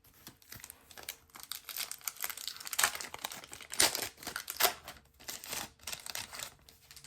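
Crinkling and tearing of a trading-card pack wrapper being ripped open by hand, a busy crackle loudest in the middle.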